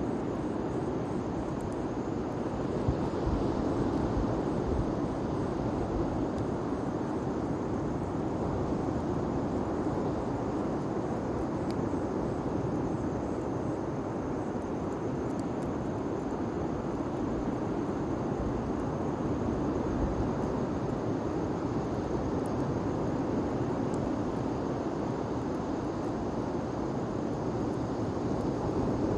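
Large bonfire burning: a steady rushing noise with faint crackles now and then.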